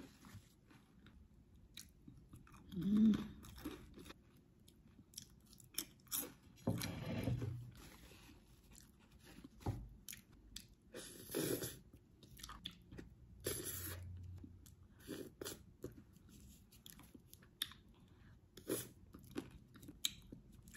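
A person chewing and crunching ridged potato chips dipped in avocado paste, in short irregular bites. A short pitched sound about three seconds in is the loudest moment.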